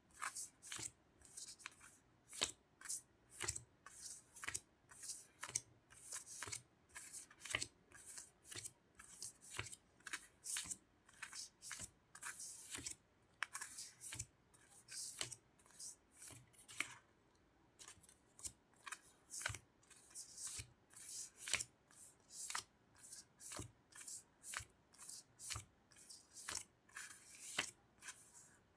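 Sticker sheets and their paper and plastic packaging being handled and flipped through: a run of short, crisp crackles and flicks, two or three a second, with a brief pause a little past the middle.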